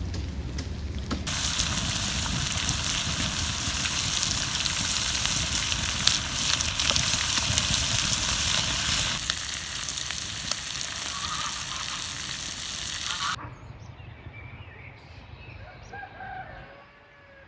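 Food sizzling steadily as it fries in fat, cutting off suddenly about 13 seconds in. It is followed by a few gliding calls from a chicken.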